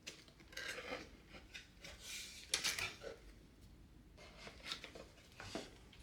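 Soft scrapes and light clicks of small objects being handled on a hard surface, coming in short irregular spells, the loudest scrape about two and a half seconds in.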